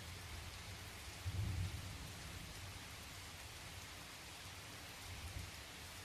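Steady rain hissing, with a low rumble of distant thunder that swells briefly about a second and a half in.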